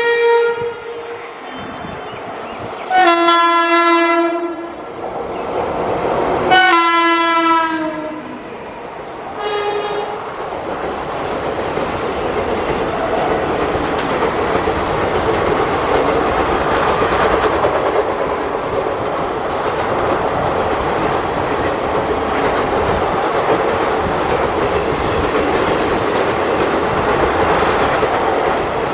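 WAP-5 electric locomotive sounding its horn four times in the first ten seconds, the middle two blasts long, then its passenger coaches running past at speed with wheels clattering on the rails for the rest.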